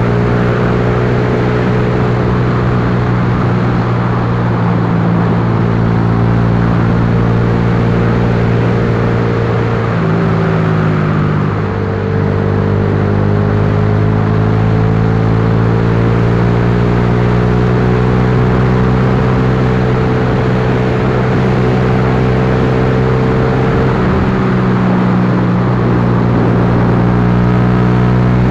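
Yamaha Lagenda 115Fi's single-cylinder four-stroke engine running steadily under way. About ten seconds in the revs dip briefly and pick back up.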